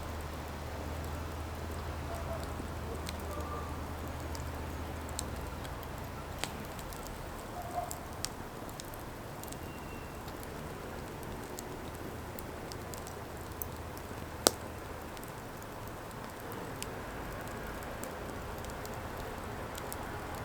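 Firewood burning, crackling with scattered sharp pops over a steady soft hiss; one pop about fourteen seconds in is much louder than the rest. A low hum sits under it for the first few seconds.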